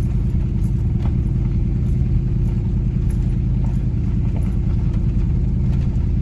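Steady low drone of a car's engine and road noise while driving.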